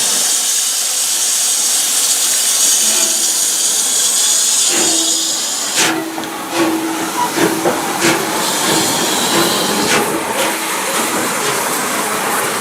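Steam locomotive letting off steam with a loud, steady hiss. About halfway through a low steady tone comes in, followed by several sharp metallic knocks.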